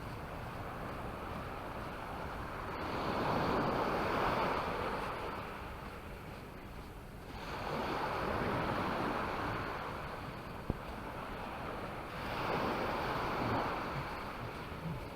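Sea waves breaking on a beach, the surf rising and falling in three swells about every five seconds.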